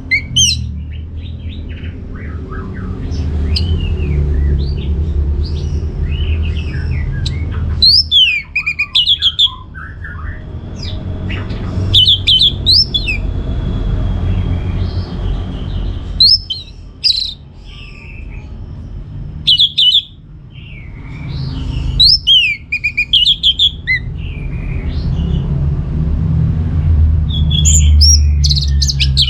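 Orange-headed thrush singing: short bursts of quick, varied whistled notes, sliding up and down, coming every few seconds over a steady low rumble.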